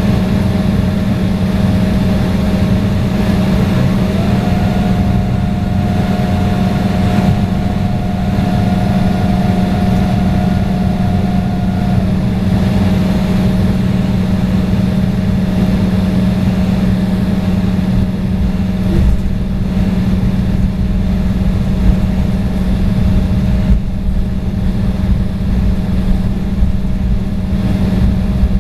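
Steady jet airliner cabin noise on an Embraer E175: a constant low drone and rumble from its two General Electric CF34 turbofans and the airflow. A faint thin tone rises slightly about four seconds in and drops out about twelve seconds in.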